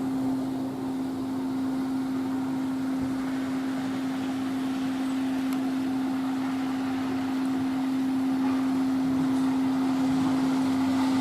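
A steady mechanical hum holding one unchanging pitch over an even hiss.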